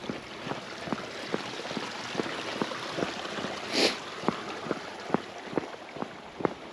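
Walking footsteps at an even pace, a little over two steps a second, over a steady hiss of outdoor background noise. A short hiss about four seconds in stands out above the steps.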